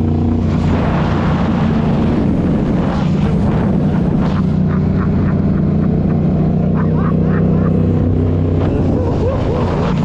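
Motorcycle engine running steadily with an even low drone.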